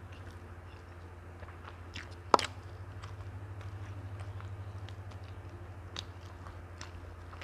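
Close-miked chewing and eating of rice and cassava-leaf rendang by hand, with small wet mouth clicks. One sharp loud snap a little over two seconds in, over a steady low hum.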